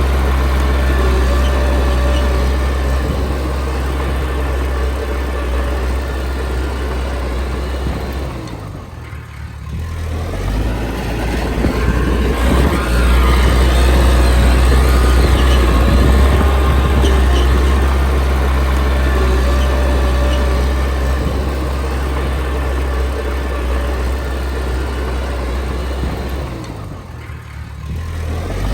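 Komatsu D20P crawler bulldozer's diesel engine running under load while pushing soil. It is loud and steady, easing off briefly twice, about nine seconds in and again near the end, before pulling back up.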